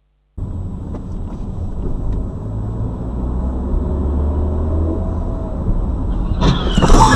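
Car driving, a steady low rumble of engine and road noise that starts suddenly just after the beginning and slowly grows. A louder, noisier sound comes in near the end.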